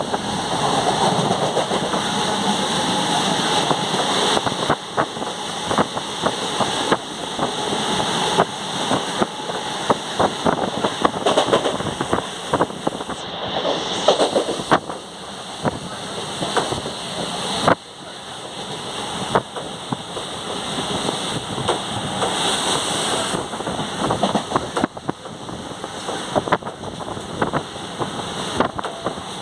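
Train running, heard from on board: a steady rush of wind and rolling noise with irregular clicks and knocks from the wheels on the track.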